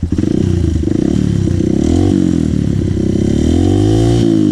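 Dirt bike engine revving hard under load on an uphill climb. Its pitch rises and falls twice as the throttle is opened and eased.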